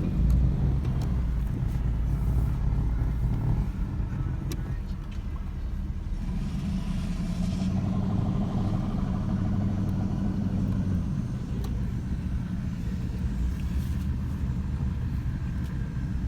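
Car engines running with a steady low rumble, swelling for a couple of seconds about six seconds in.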